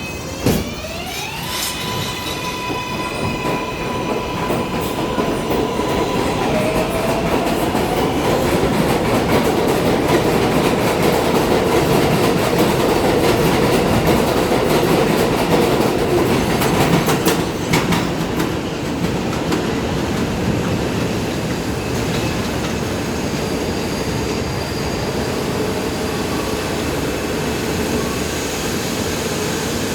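New York City subway train running through the elevated station. The train noise rises over about ten seconds, holds, then eases. A sharp click comes just after the start, a rising whine follows in the first two seconds, and a few rail clacks sound around the middle.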